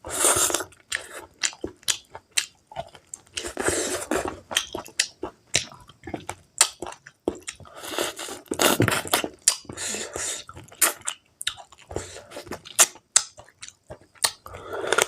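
A person chewing pork meat close to the microphone, with many short sharp clicks between irregular bouts of chewing.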